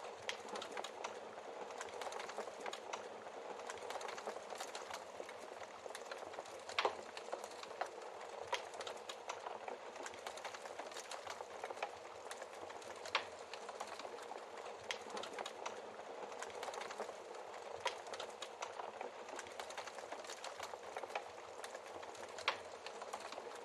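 Wood fire crackling steadily, with a few sharp, louder pops from the burning logs.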